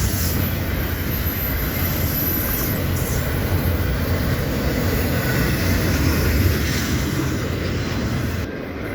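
Cars of a long double-stack container freight train rolling past, a steady rumble of steel wheels on rail.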